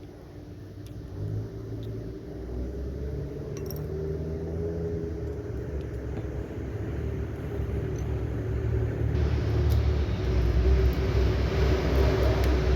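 A low, steady mechanical rumble that grows louder, with a few faint clicks.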